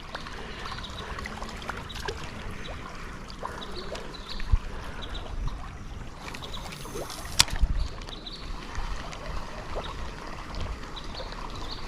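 Steady rush of flowing creek water, with scattered small clicks and splashes and one sharper click about seven and a half seconds in.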